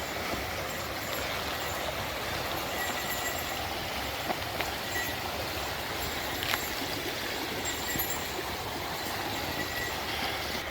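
Steady rushing of river water, with a few light clicks about the middle.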